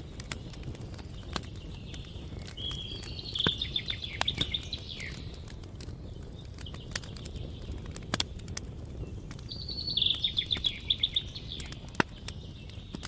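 A songbird sings two trilled phrases, each a couple of seconds long, one early and one near the end, over a crackling campfire with scattered sharp pops and a steady low rumble.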